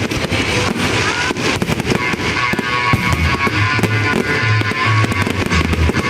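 Fireworks going off in quick succession, many sharp bangs and crackles, over loud music with guitar playing throughout.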